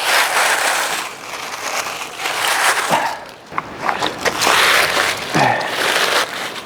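Dry leaves rustling and crunching as they are gathered and piled by hand, in uneven bursts.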